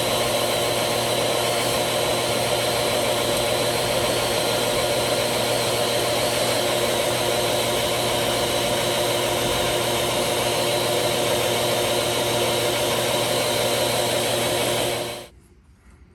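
Shop vacuum running steadily, then switched off a second before the end, its motor dying away quickly.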